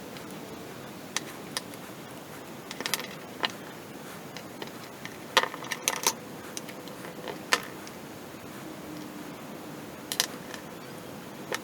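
Irregular sharp clicks and light clatter of small hard parts of a 3D-printed balisong being handled, some in quick little clusters, over a steady hiss.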